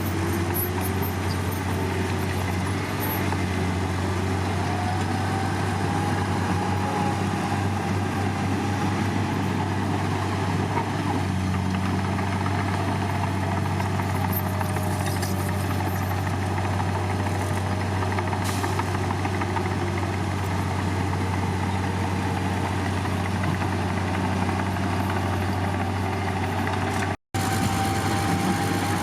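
Heavy diesel engine of earthmoving machinery running steadily: a constant low hum with a faint whine that slowly rises and falls in pitch. The sound cuts out for an instant near the end.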